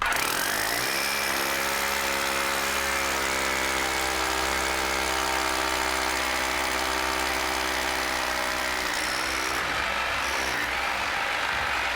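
Electric drill boring through a brick wall. The motor spins up in the first second and runs steadily under load, and its steady tone breaks up about ten seconds in.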